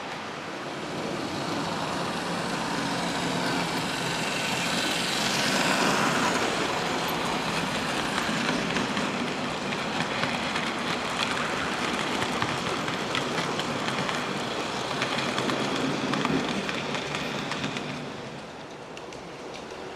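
00 gauge model train running on the layout's track: a steady motor and wheel rumble with light clicks over the rail joints, louder about a quarter of the way in and again later, easing off near the end.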